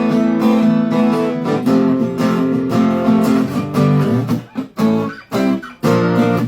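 Two acoustic guitars strumming chords between the sung lines of a live Americana song. The chords ring out at first; past the middle the strums turn short and choppy, with brief stops between them.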